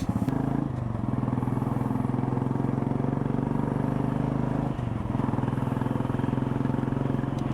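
Royal Enfield Classic 350's single-cylinder engine running at a steady, even beat, with a brief dip about two-thirds of the way through.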